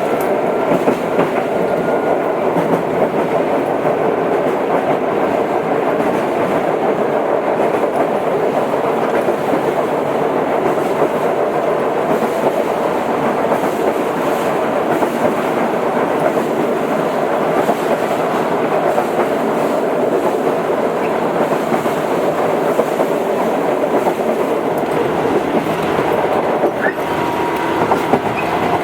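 Tobu 8000 series electric train running at speed between stations: a steady rolling rumble of wheels on rail with an even running noise that holds throughout.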